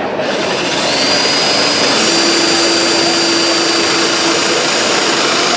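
Power tool running steadily: a loud hiss with a high whine that comes in about a second in, and a lower whine joining it a second later.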